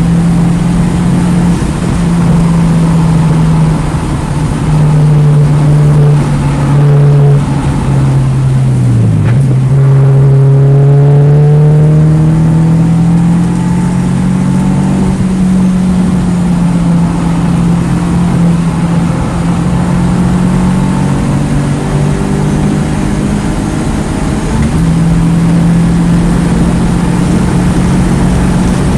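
2009 Mini Cooper S's turbocharged four-cylinder engine running hard on track, its pitch rising and falling with the throttle. About nine seconds in the pitch falls sharply, then climbs steadily again.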